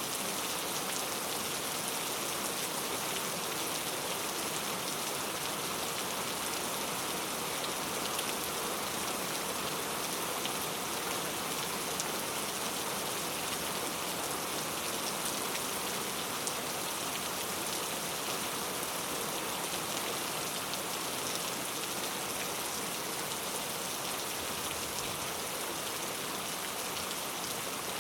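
Steady rain falling on a surface, an even hiss with scattered soft drop ticks.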